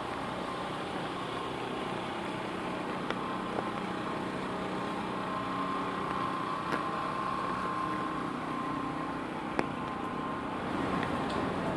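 Steady hiss of rain and wet city traffic, with a faint whine that swells through the middle and then fades. A few sharp taps of drops landing on an umbrella.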